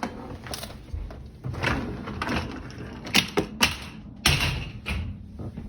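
Dishwasher door and racks being handled: irregular rattling and clunks, with a few sharp knocks between about three and four and a half seconds in.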